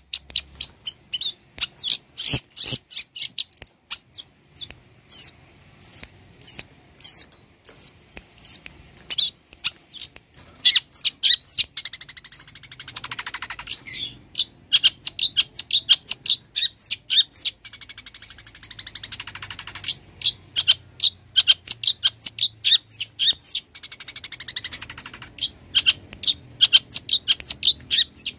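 Long-tailed shrike (cendet) singing a fast, continuous run of sharp, high chirps. The chirps are broken three times by denser, harsh buzzing stretches.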